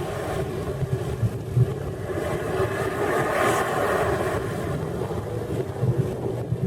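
Mud truck's engine running, with wind noise on the microphone.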